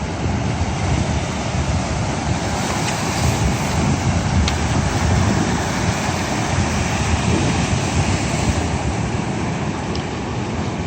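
Wind buffeting the microphone over the steady wash of sea waves breaking along a breakwater.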